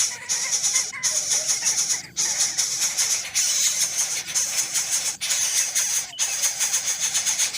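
Continuous raspy, high-pitched bird chattering and begging calls, with a few brief breaks.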